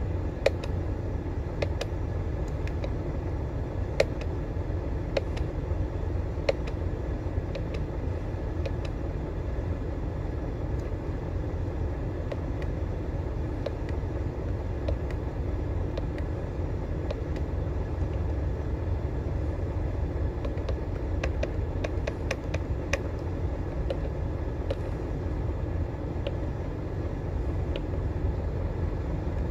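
Scania diesel vehicle running: a steady low rumble with scattered sharp clicks and rattles.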